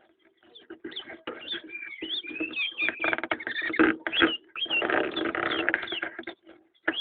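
A pet bird chirping in short, gliding notes, mixed with scratchy rustling and fluttering bursts.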